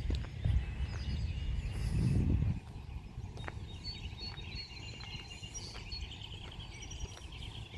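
Songbirds chirping and trilling in several quick high phrases through the second half. A low rumbling noise fills the first two and a half seconds and then drops away.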